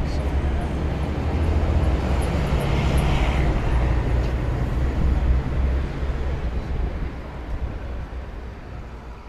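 Outdoor ambience from a camera microphone: a steady low rumble under a noisy hiss, with a few faint ticks, fading out near the end.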